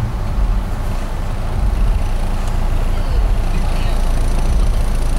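Car engine running at low speed as the car rolls up, heard from inside the cabin as a steady low drone.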